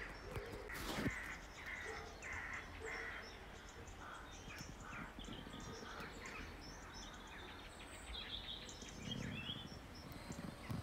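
Birds calling faintly: several harsh calls over the first few seconds, with higher chirps scattered throughout.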